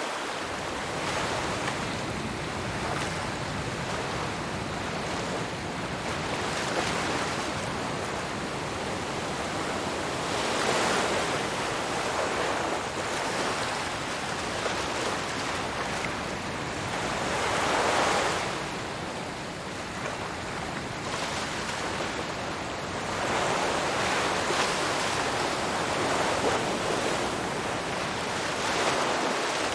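Ocean surf: waves breaking and washing up one after another in a continuous rush that swells with each breaker and eases between them.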